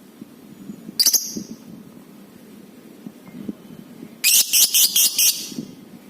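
Lovebird calling: one brief shrill call about a second in, then a rapid run of six or seven loud, sharp, shrill chirps a little past the middle.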